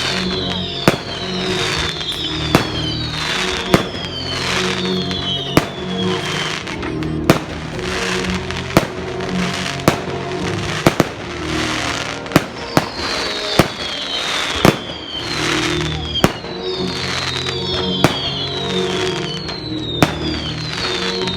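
Fireworks display: sharp bangs about once a second, with high whistles that fall in pitch, over steady music playing underneath.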